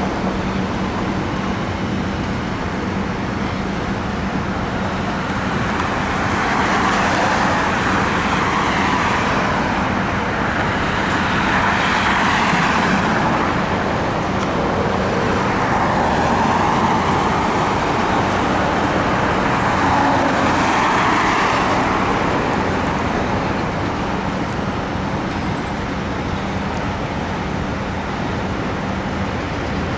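Freight train's loaded coal hopper cars rolling over a steel trestle bridge: a steady rumble of wheels on rails that rises and falls in loudness several times.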